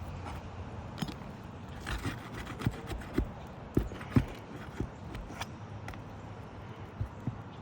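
Irregular sharp taps, clicks and scrapes of hand tools working loose the roofing nails that hold down a shingle, about ten knocks spread unevenly, a couple with a brief metallic ring.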